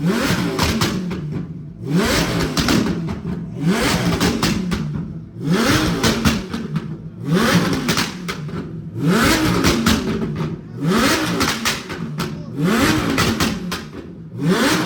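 Lamborghini engine being revved hard over and over, about eight blips each under two seconds apart. Each rev rises and falls back to idle with popping and crackling from the exhaust as it spits flames. The owner says the engine is only half warmed up in the cold, so the flames are small.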